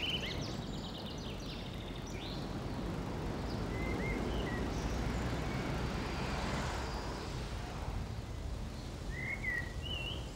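Small birds chirping in short, quick notes now and then over a steady outdoor background hiss, which swells a little in the middle.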